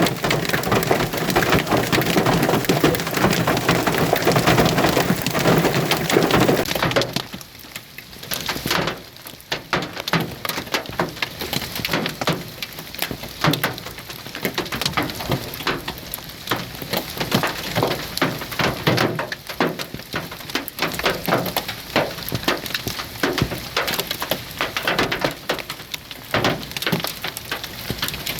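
Large hailstones pelting down, a dense clatter of hard impacts that about seven seconds in suddenly thins to scattered, separate strikes.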